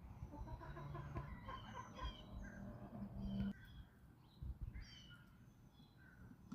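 Backyard chickens clucking in a quick run of short calls that stop suddenly about three and a half seconds in, with small wild birds chirping high over them throughout.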